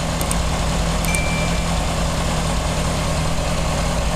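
Honda CBR600RR inline-four engine idling steadily, running after an oil change to circulate the fresh oil.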